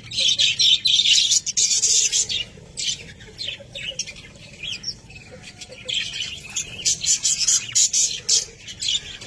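Pet budgerigars chattering: rapid chirps and harsh squawks in quick succession, busiest at the start and again from about two-thirds of the way through.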